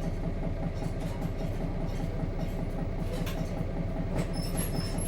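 Nissan Diesel KC-RM211GSN bus's FE6 straight-six diesel engine idling steadily at a stop, heard from inside the bus. A few short high beeps sound about four seconds in, around the moment of departure.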